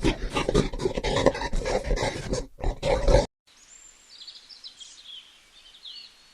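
An animal's loud calls, rapid and repeated, cut off abruptly about three seconds in. After a short silence, faint high bird chirps follow.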